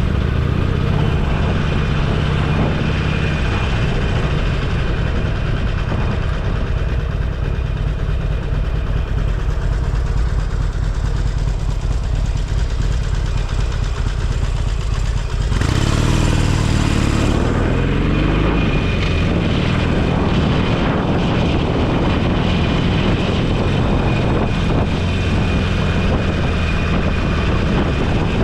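Motorcycle engine running on the move, with steady road and wind noise. About halfway through the sound suddenly grows fuller and the engine pitch rises as it accelerates.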